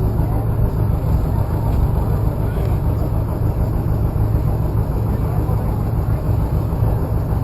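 A motor vehicle's engine running steadily, a continuous low rumble, with faint voices in the background.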